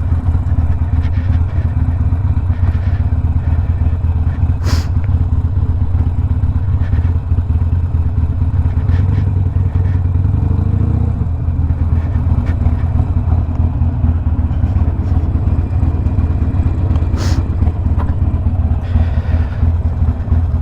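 Stage-one tuned Harley-Davidson Sportster Iron 1200's air-cooled V-twin running through a Two Brothers 2-into-1 exhaust, a steady low rumble. Two sharp clicks cut in, one about five seconds in and one near the end.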